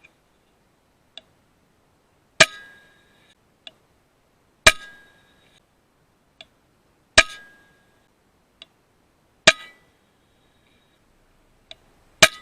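FX Impact M3 .22 PCP air rifle firing five shots about two and a half seconds apart, each a sharp crack followed by a brief metallic ring. A lighter click comes about a second before each shot.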